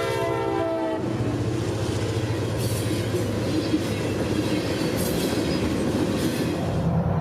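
A diesel freight locomotive's multi-note horn chord ending about a second in, followed by the train passing: a steady low engine drone and wheels rumbling on the rails, with three brief high-pitched squeals.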